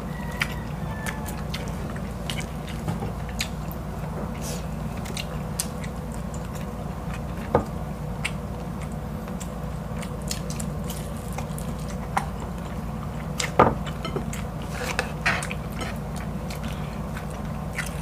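Two people chewing hot dog and rice, with many short wet clicks from mouths and fingers, two of them louder about a third and three quarters of the way through, over a steady low hum.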